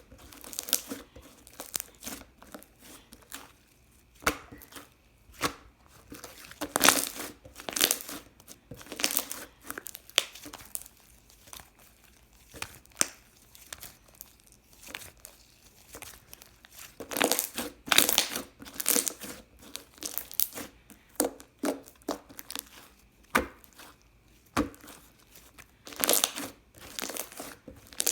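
Clear slime being squished and stretched by hand, giving irregular sticky crackles and pops, with a few louder clusters and quieter pauses between them.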